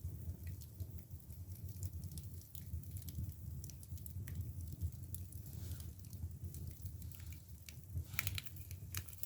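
Split bamboo firewood burning in a traditional Korean agungi firebox: the fire's steady low rumble with scattered crackles and pops, and a quick run of sharper pops about eight seconds in.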